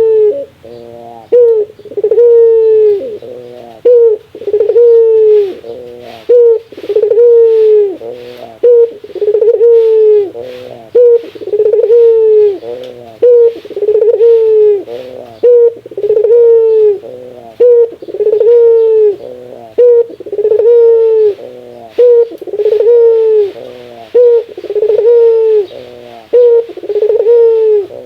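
Burung puter (domestic ringneck dove) giving its 'laughing' coo, close and loud: a falling coo repeated about every second and a half, with quick stuttering notes between the coos.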